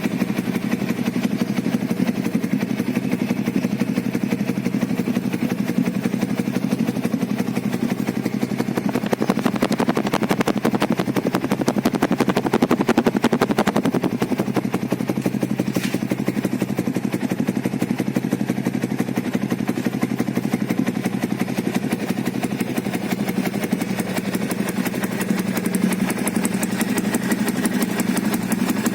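Yamaha Vixion New's single-cylinder four-stroke engine idling steadily through an aftermarket Suzuki Satria FU muffler, a little louder for a few seconds around the middle. The note is close to that of the stock exhaust.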